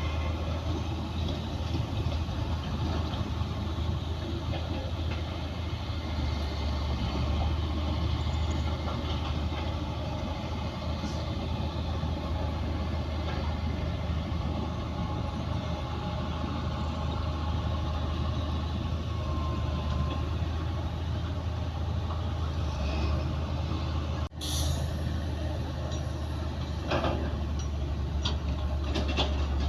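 Heavy diesel earthmoving machinery running steadily with a deep engine drone, with a few metallic knocks near the end.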